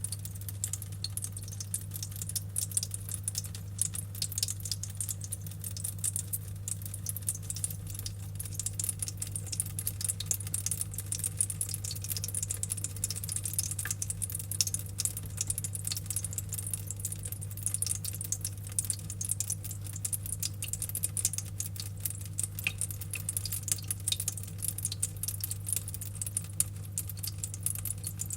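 Rain cloud humidifier dripping water, a dense patter of small drops falling without pause, over a steady low hum.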